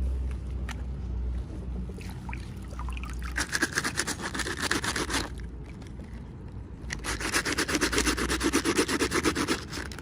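Fast scratching and rubbing against packaging in two bouts, the second louder and longer.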